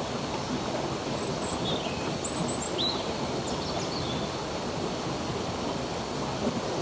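Steady rush of flowing stream water, with a few short, high bird chirps in the first half.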